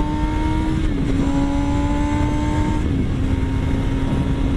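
Kawasaki ZX-6R inline-four sport bike engine under way, its pitch climbing gently and then dropping with a gear change about a second in and again near three seconds, then holding steady. Wind rush runs underneath.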